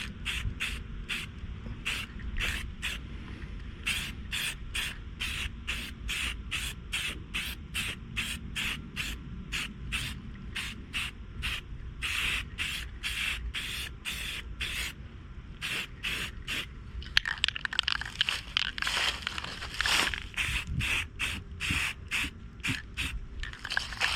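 Rust-Oleum aerosol spray-paint can sprayed in short quick bursts, about two or three hisses a second. The bursts run closer together, almost continuous, in the last several seconds.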